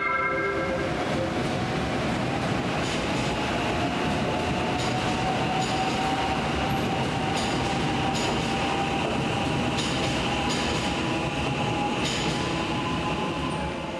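Train running along station tracks, its wheels clicking over rail joints in a regular rhythm, with a slowly rising whine as it gathers speed.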